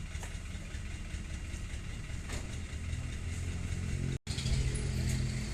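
Dump truck engine running steadily with a low drone. It drops out for an instant about four seconds in and comes back a little louder.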